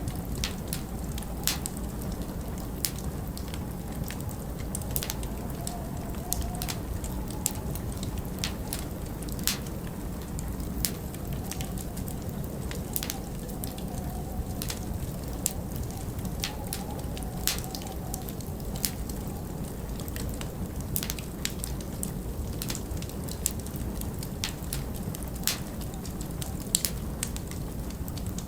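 Log fire crackling, with irregular sharp pops and snaps, over a steady low rush of winter wind.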